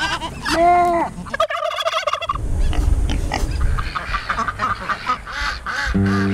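Farm poultry calling: a turkey gobbles with a fast warbling rattle, among other honking and clucking fowl calls. Music comes in just before the end.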